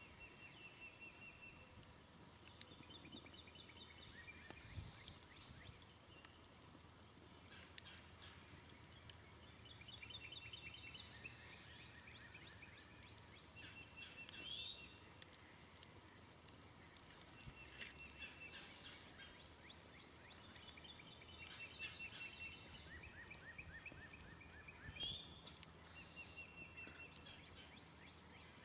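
Faint birdsong: short trills of rapid notes repeated every few seconds, mixed with scattered small crackles from a smoldering campfire.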